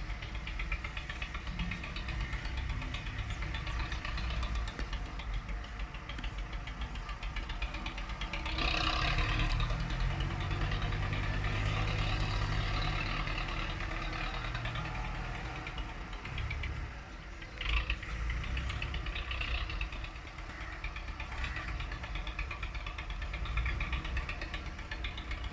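Tractor diesel engine running steadily, louder for several seconds in the middle, with one sharp knock about two-thirds of the way through.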